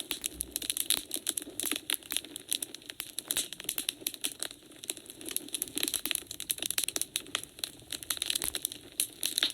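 Wood fire in a fireplace crackling, with dense irregular pops and snaps over a low, steady rush of flame.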